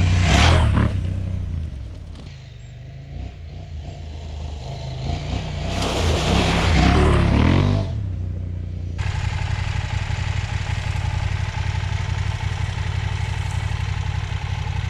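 KTM 790 Adventure R's parallel-twin engine accelerating hard twice, near the start and again about six seconds in, with a rush of wide noise. About nine seconds in, the sound switches abruptly to a steady, even engine drone.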